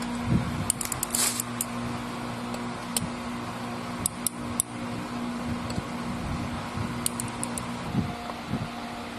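Steady hum of a workshop fan with scattered sharp metallic clicks and clinks: tools and engine parts being handled while a camshaft is fitted to a cylinder head.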